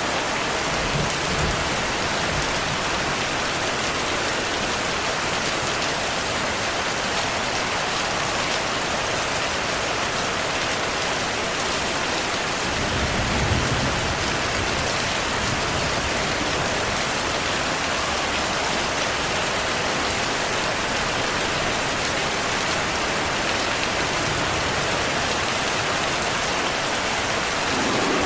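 Steady heavy rain falling, with distant thunder rumbling low, faintly about a second in and more strongly about halfway through.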